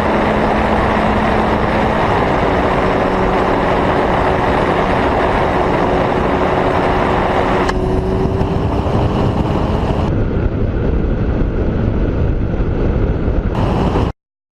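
Motorcycle riding at speed: engine running under heavy wind rush on the microphone. The sound changes abruptly a few times and cuts off suddenly near the end.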